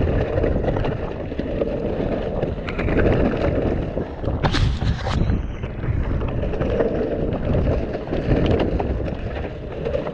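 Mountain bike riding down a wet, muddy trail, heard from a camera on the rider: wind buffeting the microphone, tyres running through mud and the bike knocking and rattling over the rough ground. A brief hiss about four and a half seconds in.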